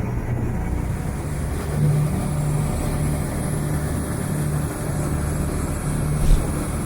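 Small motorcycle engine of a Philippine tricycle (motorcycle with sidecar) running steadily while riding, with a single low thump, a bump or jolt, about six seconds in.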